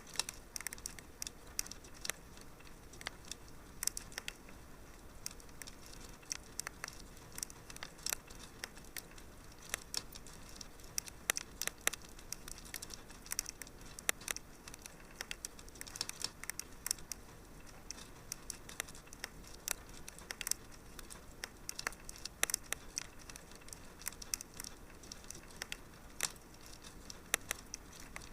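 Wood fire crackling: irregular sharp pops and snaps, many a second, over a soft low hiss.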